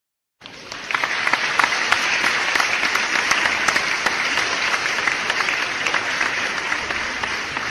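Crowd applauding: dense, steady clapping that starts abruptly about half a second in and runs at an even level.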